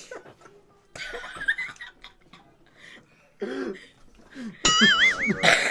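People chuckling and coughing in short scattered bursts. About a second before the end, a loud wavering high tone comes in suddenly.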